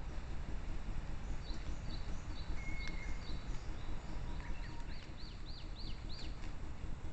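Small birds calling in woodland: a series of short, high, evenly spaced notes, then a quicker run of downward-sliding high notes about two-thirds of the way through, over a steady low background noise.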